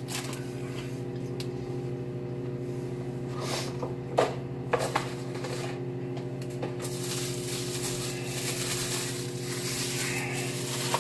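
Microwave oven running with a steady low electrical hum, with a few brief crunches or knocks about four seconds in.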